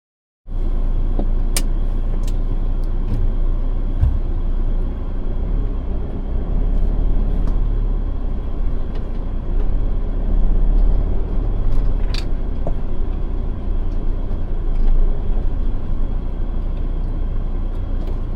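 Van driving: a steady low rumble of engine and road noise, with a few sharp clicks, the strongest about a second and a half in and again near twelve seconds.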